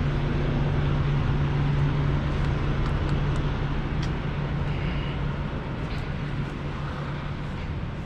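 Semi-truck diesel engine idling steadily, a constant low hum.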